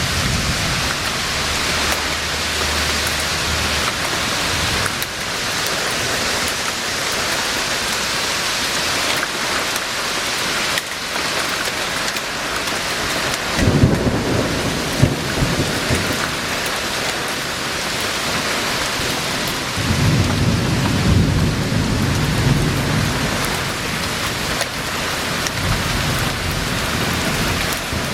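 Heavy downpour in a severe thunderstorm, a steady hiss of rain, with thunder rumbling twice: once about halfway through with a sharp crack, and again in a longer roll a few seconds later.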